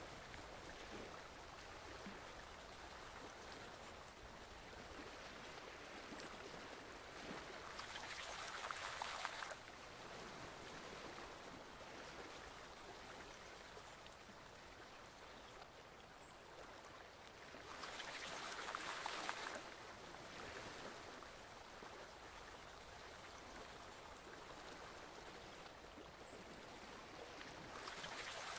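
Forest stream flowing steadily, swelling louder for a couple of seconds about every ten seconds.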